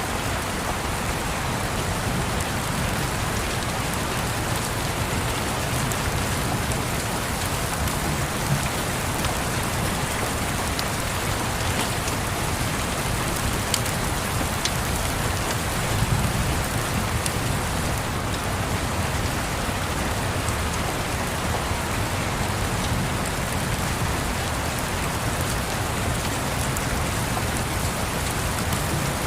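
Steady rain falling and pattering on a surface, with a low rumble underneath that swells briefly about halfway through and a few faint sharp crackles from a fireplace.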